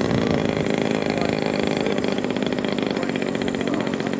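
Engine of a radio-controlled L4 Grasshopper (Piper J3 Cub) scale model plane running steadily in flight just after takeoff, a buzzing motorcycle-like drone.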